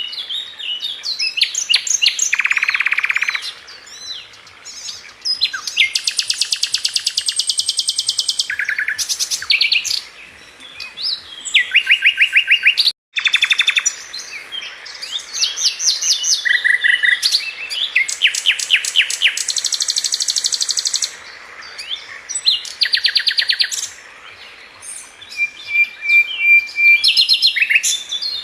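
Sikatan London flycatcher singing a long, varied song of fast rattling trills, buzzy runs and short whistled phrases, one phrase after another with hardly a pause. The sound cuts out for a split second about 13 seconds in.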